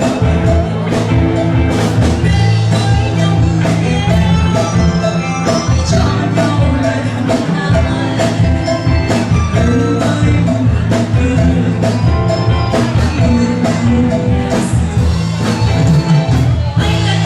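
A live band playing a pop song: a drum kit keeping a steady beat under a bass line and held chords.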